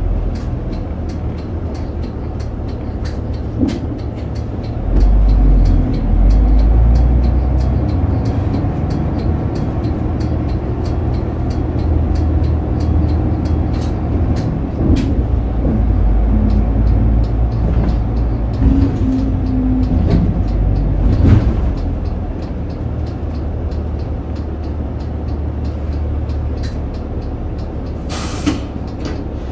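Interior ride sound of a city bus: the diesel engine runs with a steady low rumble that grows louder about five seconds in as the bus pulls under load. Small rattles and ticks come from the cabin, and a short burst of air hiss from the air brakes sounds near the end.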